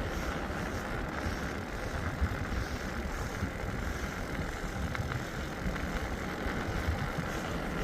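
Steady rumbling road and wind noise from riding a loaded bicycle, with no clear engine tone.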